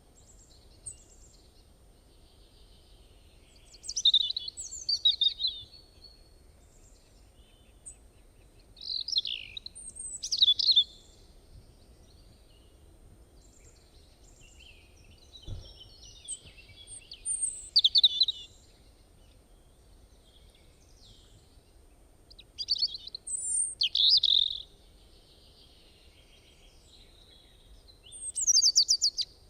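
Songbirds singing in short bursts of high chirps every five or six seconds over a faint steady rain hiss, with one soft low knock about halfway through.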